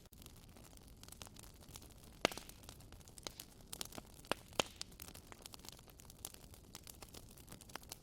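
Wood fire crackling in a fireplace: a faint steady hiss with irregular snaps and pops, the sharpest a little over two seconds in and a few more between about four and five seconds.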